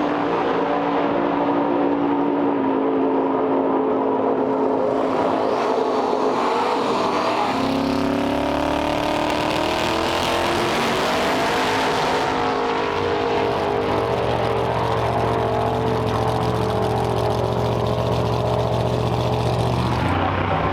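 Car engine running steadily, its pitch climbing about eight seconds in and then holding a steady drone, over road and wind noise.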